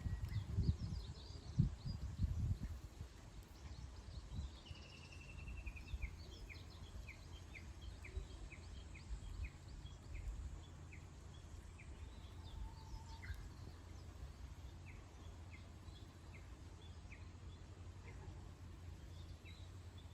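Wild birds chirping, with a short trill about five seconds in followed by a series of short, evenly repeated chirps, roughly two a second, that pause and resume later. A low rumble in the first couple of seconds, then a steady low background hum.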